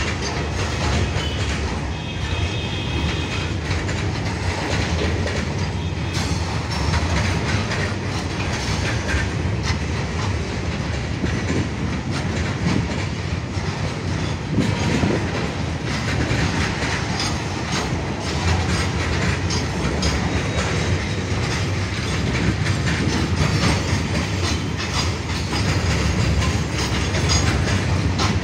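Freight wagons of a goods train rolling past, their wheels clattering steadily on the rails.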